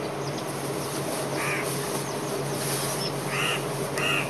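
Short bird calls, one about a second and a half in and two close together near the end, over a steady background hiss and hum.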